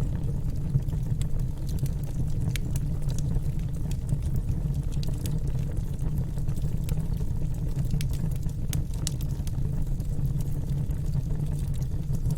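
Wood fire burning in a fireplace: a steady low rush of the flames with scattered sharp crackles and pops.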